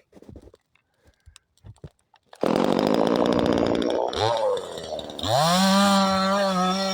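DDE CS 250 two-stroke chainsaw starting up about two and a half seconds in after a few light clicks, running unevenly at first. About five seconds in it is revved up hard and held at high revs.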